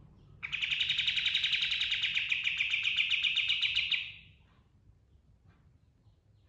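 Kapas tembak songbird giving a loud, very fast rattling trill of about three and a half seconds, starting about half a second in and tailing off, followed by a few faint chirps.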